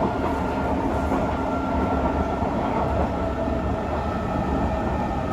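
Kawasaki C151 metro train running, heard from on board: a steady rumble of the car on the track with faint, even whining tones above it.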